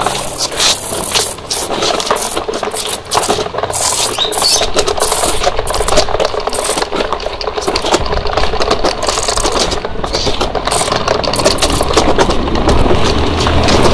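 A truck engine running with a loud, uneven rattle.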